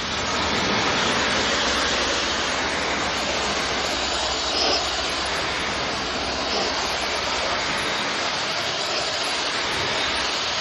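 Pressurised water spray washing an air-conditioner blower fan: a steady hiss that holds throughout, with a low rumble beneath.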